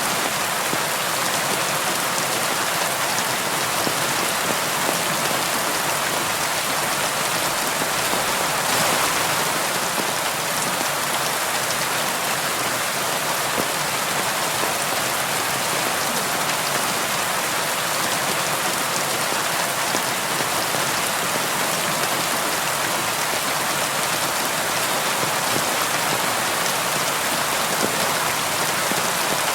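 Steady rain falling on window glass, an even hiss of drops with no let-up.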